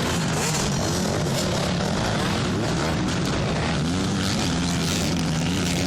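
Several motocross motorcycles racing, their engines revving up and down in a loud, continuous mix of engine noise.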